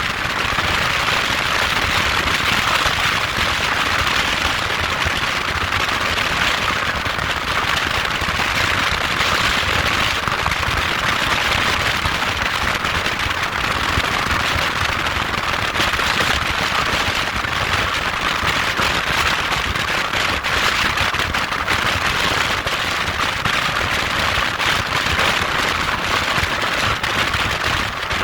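Steady rushing, crackling noise with no pauses, the wind-and-engine noise of a moped being ridden.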